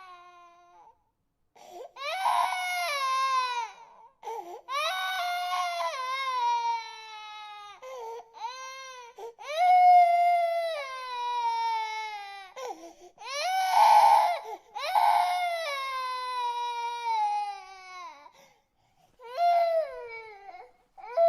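Baby crying: a string of long wails, each sliding down in pitch, with short gaps between them.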